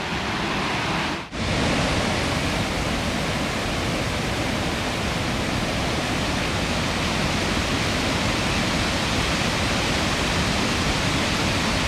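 Waterfall: a steady rush of falling water, briefly cut off a little over a second in.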